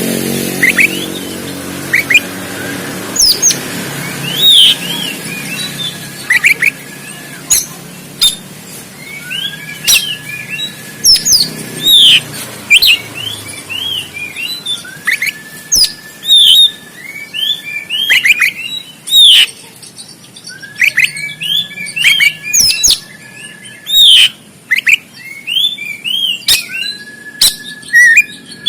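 Oriental magpie-robin singing a rapid, varied song of sharp chirps and quick whistled notes. The chirps are broken every few seconds by a long, level whistle held for about a second.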